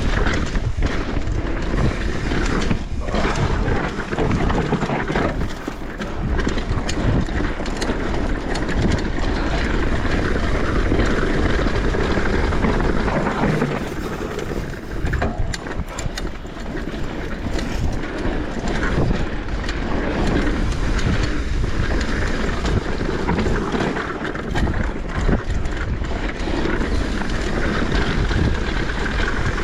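Mountain bike riding down a dirt trail: steady wind rush on the microphone and tyre noise, with frequent knocks and rattles as the bike goes over bumps.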